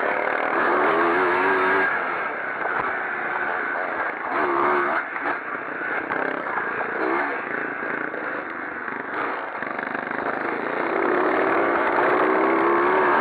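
Pre-1965 motocross motorcycles racing, engines revving up and dropping back as the bikes work round the track. Near the end one engine note climbs steadily as a bike gets louder.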